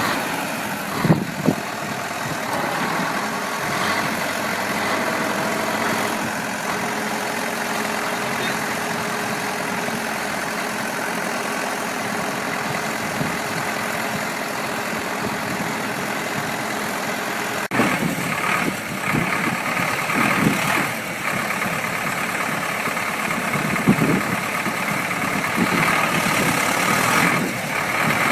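A motor vehicle's engine running steadily. About eighteen seconds in the sound changes abruptly, and uneven louder knocks and surges follow.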